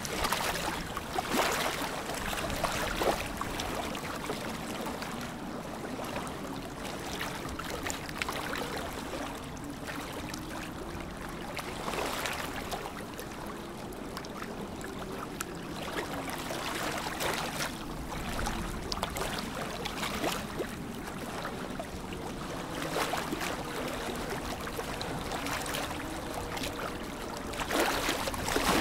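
Lake water lapping and splashing in small irregular waves. A faint low tone wavers slowly up and down underneath.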